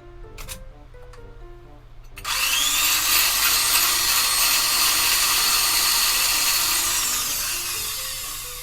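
A small handheld power tool runs with a high-pitched whine, starting suddenly about two seconds in and fading out near the end, over soft background music.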